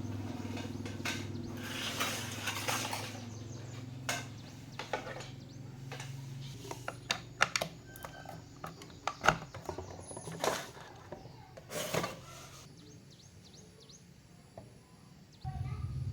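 Scattered sharp clicks and knocks over a low steady hum; the hum fades after about seven seconds, and a low rumble starts near the end.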